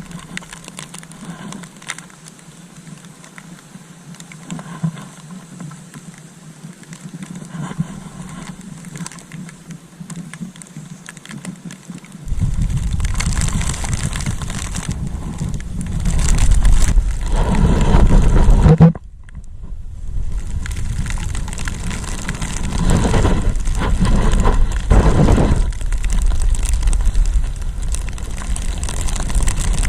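Wind buffeting the microphone in a blizzard. A quieter hiss gives way, about twelve seconds in, to a loud low rumble, which drops out for about a second near the nineteen-second mark and then comes back in surges.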